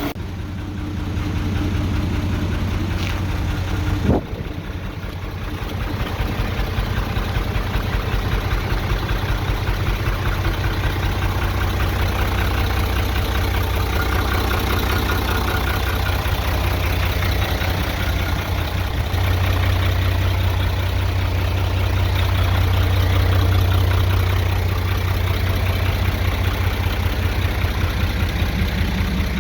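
Hino H07C inline-six diesel engine idling steadily, with one short sharp knock about four seconds in.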